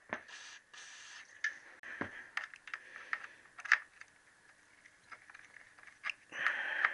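Aerosol penetrating spray hissing in two short bursts onto a stuck rev-counter drive cable fitting, followed by scattered light clicks and taps of hand tools on the metal fitting.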